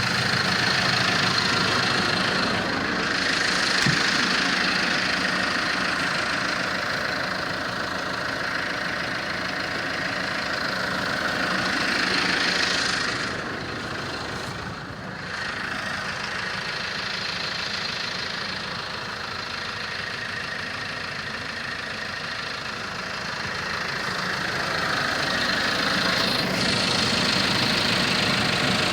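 Case Farmall 85 tractor's diesel engine running steadily. Its level eases off briefly about halfway through and picks up again near the end.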